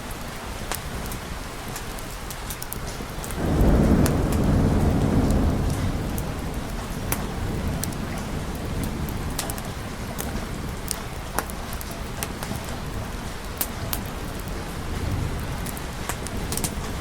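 Steady rain, with a low rumble of thunder that swells about three and a half seconds in and fades away over the following seconds. Scattered sharp little crackles sound throughout.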